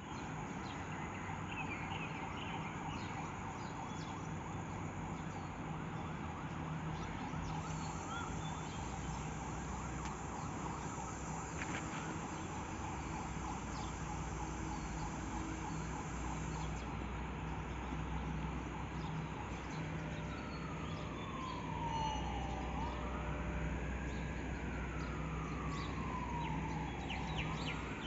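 A wailing siren sweeping slowly down and up in pitch, starting about two-thirds of the way in, over steady background rumble and hum.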